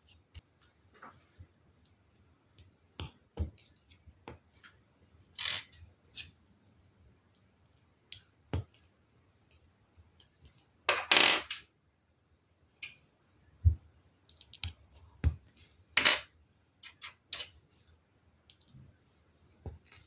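Plastic LEGO Technic pieces clicking and rattling as they are handled and pressed together: irregular sharp clicks with a few short rattling bursts, the longest about halfway through.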